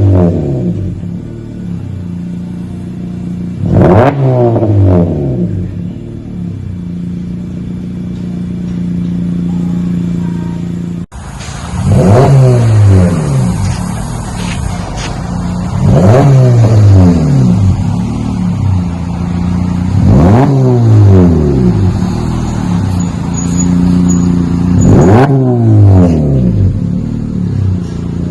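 2017 Honda Civic coupe's four-cylinder engine breathing through a cat-back exhaust with a Magnaflow Magnapack muffler, revved repeatedly from idle. Each rev rises quickly and drops back to a steady idle, roughly every four seconds, with a brief cut in the sound a little before the middle.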